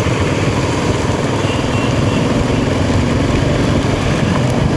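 Royal Enfield Himalayan 450's single-cylinder engine running steadily on the move, under a dense rush of heavy rain and wind.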